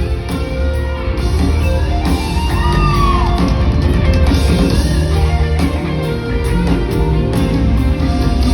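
Loud rock song with electric guitar, including a bending guitar note about three seconds in.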